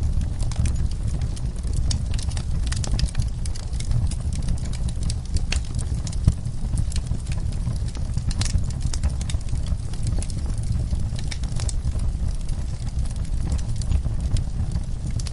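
Wood fire in a fireplace crackling, with irregular sharp pops and snaps over a steady low rumble, one sharper pop about six seconds in.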